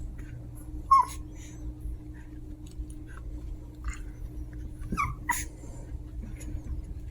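Chihuahua puppies at play, giving a few short, high yips and whimpers with small clicks and scuffles between them. The loudest yip comes about a second in, and a couple more come around five seconds in.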